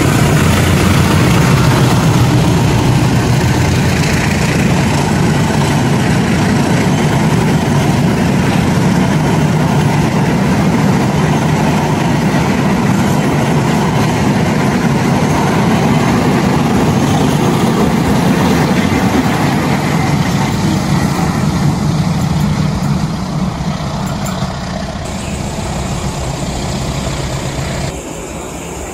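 Train passing close by: a loud, steady rumble of the locomotive's engine and wheels on the rails, fading over the last few seconds as it goes by.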